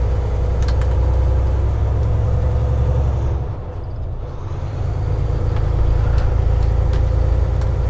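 Semi truck's diesel engine droning steadily, heard inside the cab while driving, easing off briefly about three and a half seconds in before picking back up.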